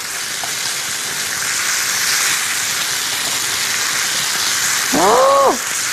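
Spicy pork and kimchi stir-frying in two frying pans over gas burners: a steady, even sizzle while the food is stirred. A short vocal sound comes in about five seconds in.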